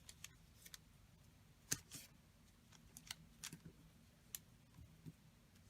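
Faint, scattered light clicks and taps of paper craft pieces being handled and set down on a work table, one sharper click about two seconds in, over quiet room tone.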